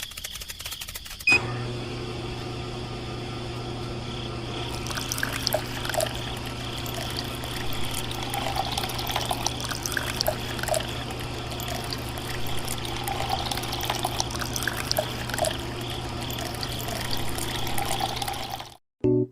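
A small electric motor-driven water pump switches on about a second in and runs with a steady hum. From about five seconds in, water pours and splashes from it. The sound cuts off abruptly near the end.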